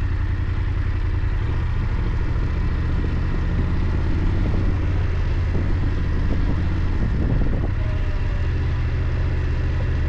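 BMW F 800 GS parallel-twin engine running at a steady pace while riding: a deep, even drone under a steady rush of wind and road noise.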